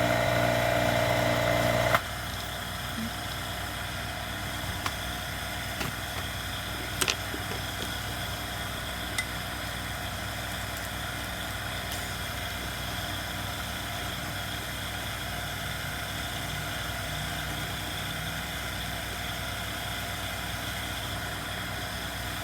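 A steady machine hum cuts off abruptly about two seconds in, leaving a steady low background noise broken by a few faint light clicks.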